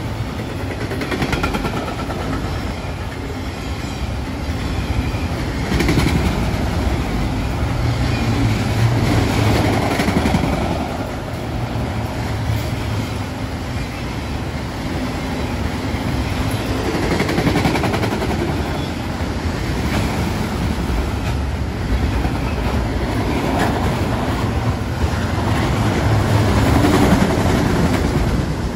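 Freight train of enclosed autorack cars rolling past on the rails: a steady rumble of steel wheels on track that swells and eases every few seconds as the cars go by.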